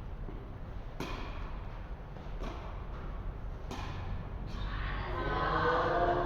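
Tennis rally on an indoor court: four or five sharp racket-on-ball hits and bounces about a second apart, each with a short echo, then a person's voice near the end.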